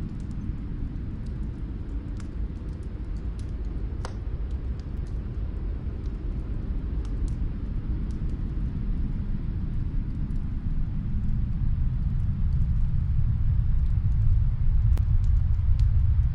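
Low, rumbling snowstorm wind that builds louder over the last few seconds, with faint, scattered crackles of a wood fire.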